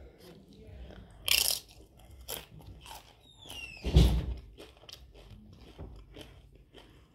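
Tortilla chip with guacamole being bitten and chewed close to the microphone, a run of small crunches with a loud crunch about a second in. A heavy thump comes about four seconds in.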